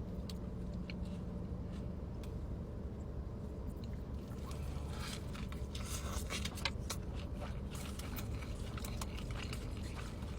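Close-up eating sounds: a person chewing and biting into a messy burger. Crackly clicks and scrapes come thicker from about halfway in, over a steady low hum.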